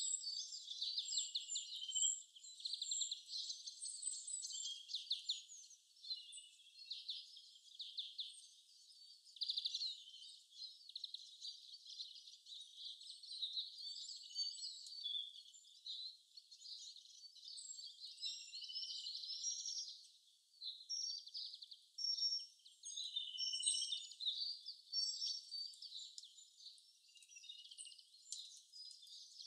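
Small songbirds chirping and trilling in quick, overlapping phrases that come and go throughout, high and thin with no lower sounds beneath them.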